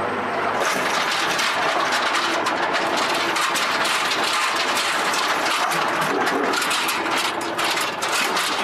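Loud, steady engine and rotor noise from a UH-1Y Venom helicopter, turning brighter and fuller less than a second in.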